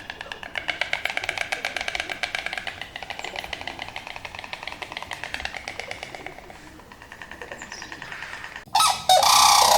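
A fast, rattling animal call of short pulses, about ten a second, lasting several seconds, then near the end a sudden switch to louder goose-like honking.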